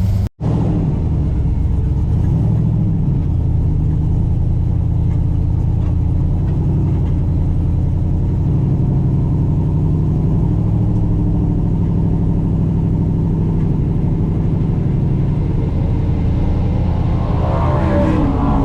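Engine idling steadily with a low rumble; near the end its pitch rises as the engine picks up.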